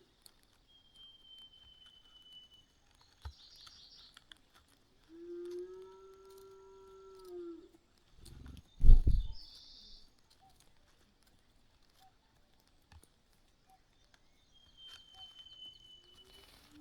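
Wild animal calls, mostly birds. A thin high whistle slides slightly down, heard twice. There are short bursts of high chirps and a long low call lasting about two seconds. A loud low thump about nine seconds in is the loudest sound.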